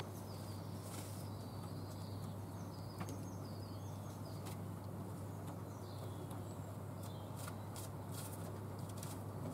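Faint background: small birds chirping in short, high calls over a steady low hum, with a few light clicks.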